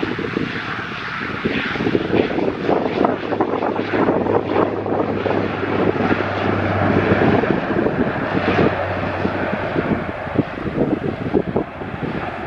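Airliner engines running, with wind buffeting the microphone.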